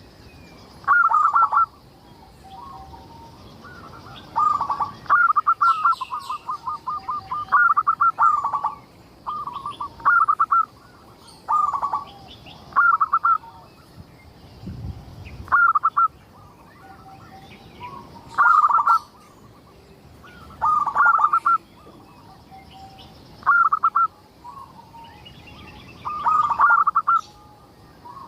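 Zebra dove (perkutut) cooing in repeated short phrases of quick notes, one every two to three seconds, with one longer run of rapid notes about five seconds in.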